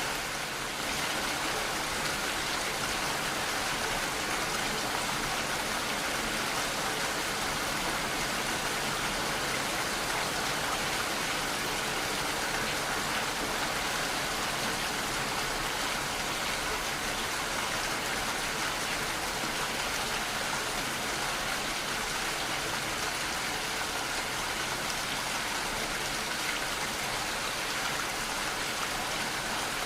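Steady rainfall, an even continuous hiss of rain falling and hitting surfaces.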